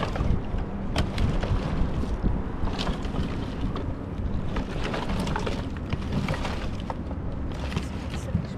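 Wind buffeting the microphone as a steady low rumble, with irregular sharp snaps and knocks throughout, such as twigs and branches cracking underfoot or in the hands.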